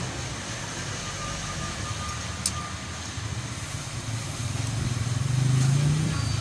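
A motor vehicle engine running, a low steady rumble that swells louder about five seconds in and then eases, with one sharp click about two and a half seconds in.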